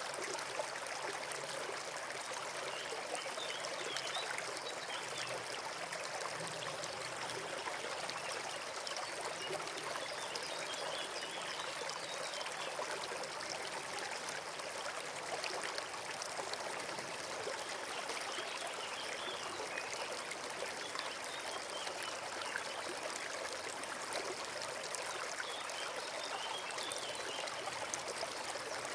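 Forest stream running steadily over stones, a continuous trickling and gurgling rush of water.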